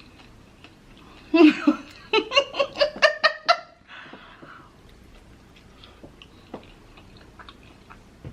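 A woman laughing for about two seconds in a run of short bursts, followed by a breathy exhale and faint small clicks.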